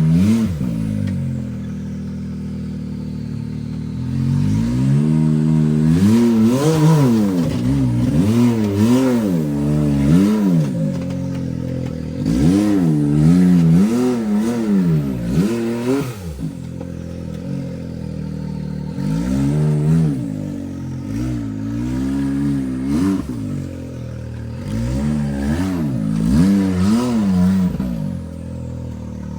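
Off-road rock-crawling buggy's engine blipped in repeated short revs, the pitch rising and falling again and again, with steadier idling stretches between bursts, as the machine works its way up rocks.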